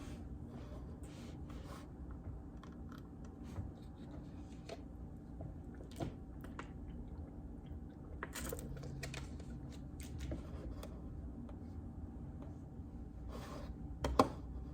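Scattered, irregular keystrokes on a JJK84 mechanical keyboard with Outemu Silent Peach linear switches, over a steady low hum, with a sharper knock near the end.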